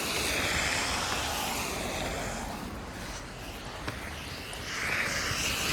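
Street traffic passing: a steady rush of tyres and engines that eases around the middle and swells again near the end as another vehicle goes by. A short click comes about four seconds in.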